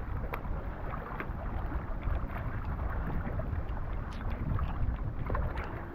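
Wind buffeting the microphone over water sounds around a fishing kayak, a steady low rumble with a few faint clicks.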